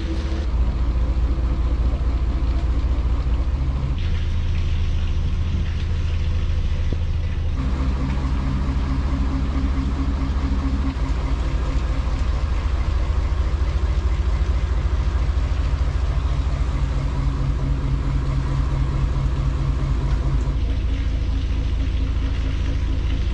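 A Dutch barge's inboard engine running slowly and steadily, a deep hum that changes tone abruptly a few times.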